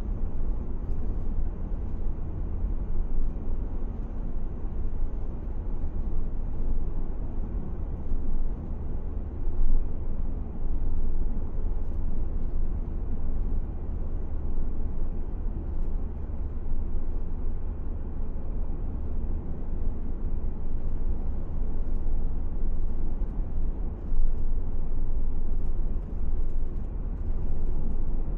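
Steady low rumble of a car driving along a paved road: engine and tyre noise.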